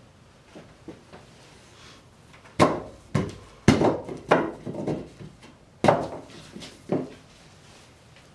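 Irregular wooden knocks and clunks, about six, some loud, on a wooden table top being worked on during the cutout.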